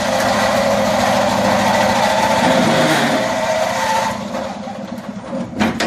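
A 1974 Cushman Truckster's engine is started and runs steadily for about four seconds, then fades away.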